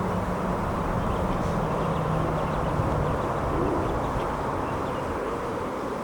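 Steady outdoor background noise with a low engine drone, as of passing traffic or a river boat, that fades away about halfway through.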